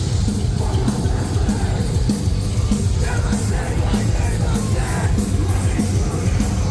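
Live metalcore band playing at full volume: distorted guitars, bass and drums with steady cymbal hits, and yelled vocals coming in about halfway through.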